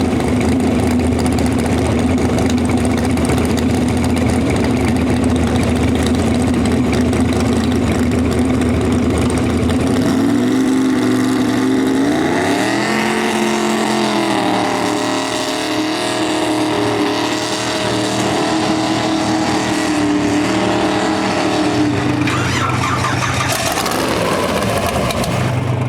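Mini rod pulling tractor's engine idling steadily, then revving up sharply about ten seconds in. It holds at high revs for about ten seconds under load on the pull, then drops back to idle near the end.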